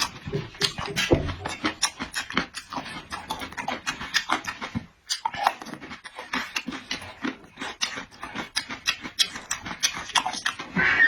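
Close-up eating sounds: rapid wet chewing and lip-smacking, with a short pause about five seconds in.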